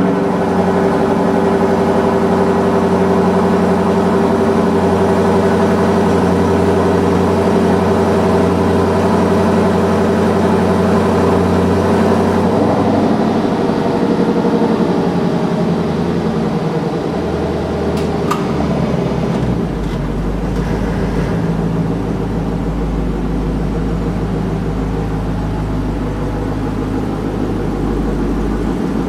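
Lexus LC 500's 5.0-litre V8 idling steadily. Its note steps down about halfway through and again a few seconds later, settling to a deeper, lower idle.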